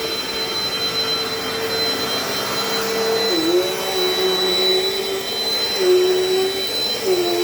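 Dirt Devil Dynamite Plus vacuum cleaner running with a steady motor whine. About three seconds in, its pitch drops, then dips and recovers a few more times.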